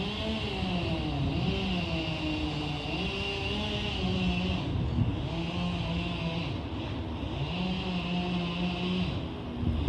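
Madrid Metro 3400-series electric train running slowly, its traction motors whining in several tones whose pitch dips and climbs back a few times, over a high hiss.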